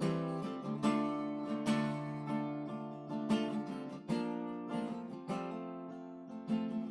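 Strummed acoustic guitar playing chords between the sung lines of a worship song, each strum sounding then fading.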